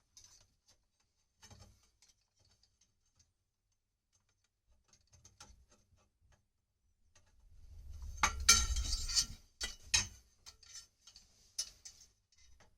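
Plumbing tools and copper pipe being handled: scattered light metal clicks and rattles, with a louder stretch of ratchet-like clicking and scraping about eight seconds in, and a few sharp clicks after it.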